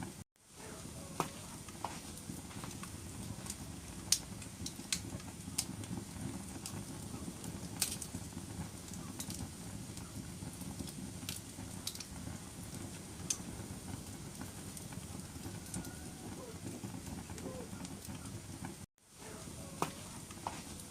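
Wood fire in a fireplace burning with a steady low rumble and scattered sharp crackles and pops. The sound cuts out completely for a moment shortly after the start and again near the end.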